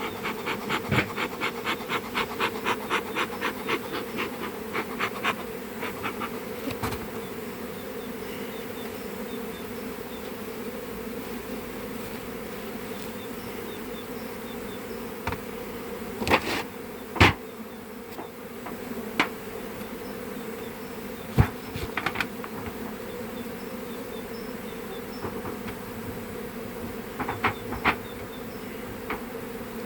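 A swarm of honeybees buzzing in a steady hum. Over the first five seconds a quick series of about four clicks a second sounds, and a few sharp knocks come later.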